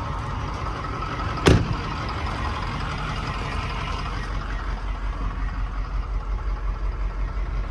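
Ford 6.4L Power Stroke V8 turbo-diesel engine idling steadily, with a single sharp knock about one and a half seconds in.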